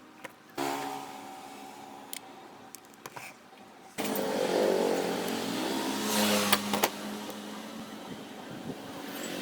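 An electric power tool motor switched on twice, each time starting suddenly with a steady pitched hum and then winding down. The second run, about four seconds in, is the louder of the two.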